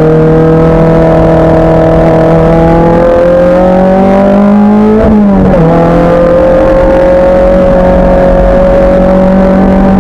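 Race car engine pulling hard under acceleration, its note climbing steadily through a gear. About halfway through there is a quick upshift, the pitch drops, and then it starts climbing again.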